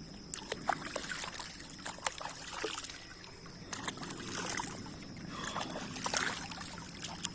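River water splashing and sloshing, with many small irregular splashes and drips, as someone moves about in the shallow current.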